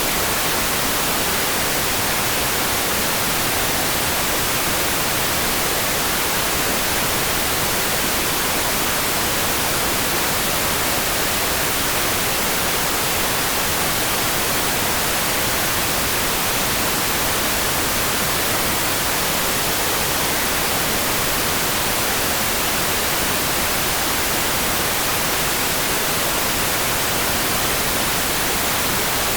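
Steady rain sound for sleep: an even, unbroken hiss, brighter in the highs, with no single drops standing out.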